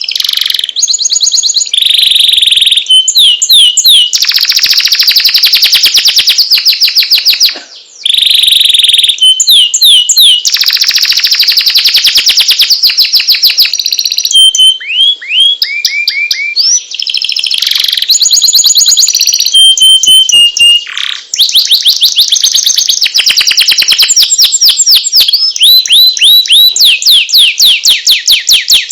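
Domestic canary singing loudly and without a break: long rapid trills and rolls of repeated notes at several pitches, mixed with short downward-sliding whistles. The song starts suddenly.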